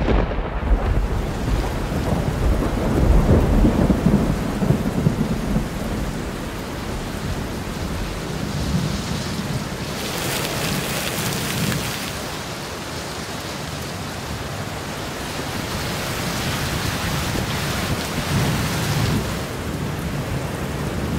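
Thunderstorm: a long, heavy rumble of thunder dying away over the first several seconds, then steady heavy rain that surges louder and hissier twice.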